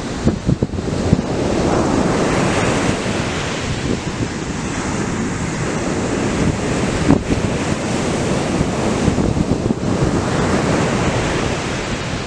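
Atlantic surf breaking and washing up the beach, a steady rushing that swells about two seconds in and again near the end, with wind buffeting the microphone.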